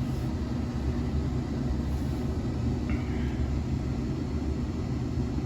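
Old GE gas furnace running with a steady low hum and rumble.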